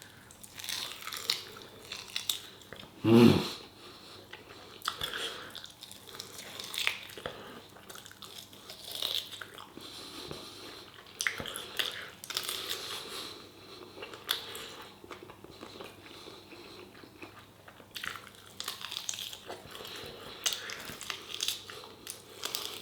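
A man chewing and biting food close to the microphone, with wet mouth sounds and small crunches at an uneven pace. One louder sound comes about three seconds in.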